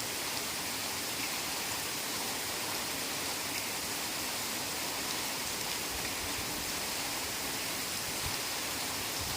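Heavy rain falling steadily in a forest, an even hiss with no breaks.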